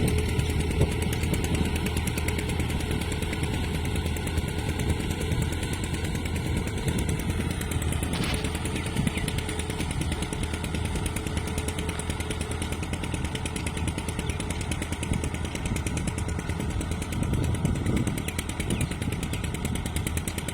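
Fiat 480 tractor's diesel engine running steadily, with a brief click about eight seconds in.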